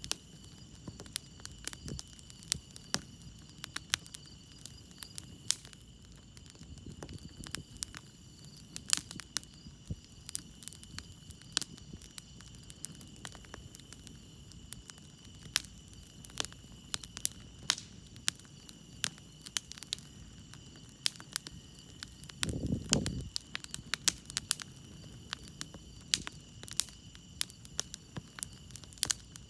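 Wood fire crackling, with irregular sharp pops and snaps, over crickets chirping steadily in the background. About three quarters of the way through there is a brief low rumble.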